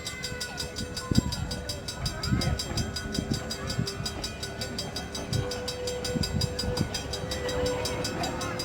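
A train moving, with irregular low knocks and a long, steady faint tone that starts about a second and a half in, joined for a few seconds by a second, lower tone. Voices can be heard faintly in the background.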